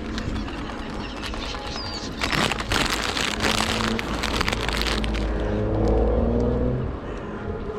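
A car driving past, its engine rumble building to its loudest about six seconds in and then falling away, over crackling rustle in the first few seconds.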